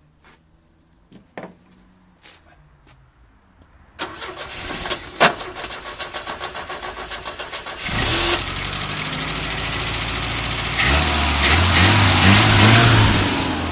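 Opel Ascona B 1.6S four-cylinder engine cold-started after two years standing: a few faint clicks, then the starter cranks it with a rapid rhythmic chug for about four seconds before it catches and runs. Near the end the revs are raised in steps.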